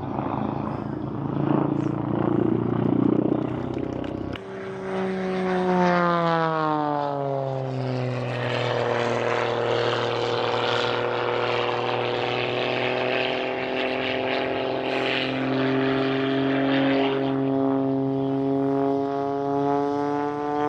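Propeller airplane engine droning overhead. After an abrupt change about four seconds in, its note falls in pitch as the plane passes, then holds steady.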